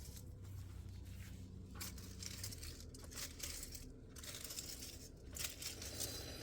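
Rustling, crinkling noise in several irregular bursts, coming and going about a second apart in the second half.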